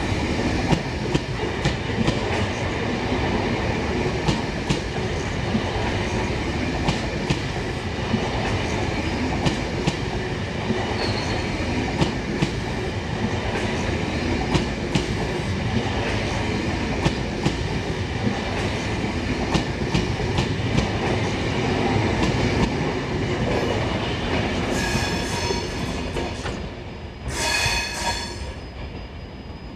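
Eurostar Class 373 train passing, a steady rumble with its wheels clicking evenly over rail joints. The rumble fades near the end, and two short pitched tones sound, the second lower and louder.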